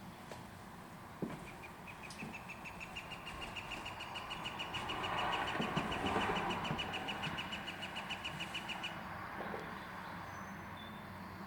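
Northern flicker giving its long call: a rapid, even series of short "wick" notes at one pitch, about six a second, lasting some seven seconds, swelling louder in the middle then fading. A single sharp click comes about a second in.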